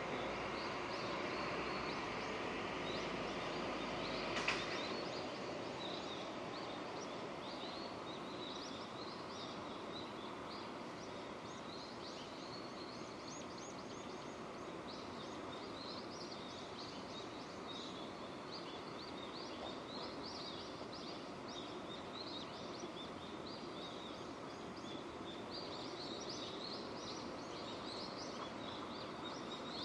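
Steady rain falling, with small birds chirping over it again and again. In the first few seconds a low rumble sits under the rain and stops about four and a half seconds in, marked by a single sharp click.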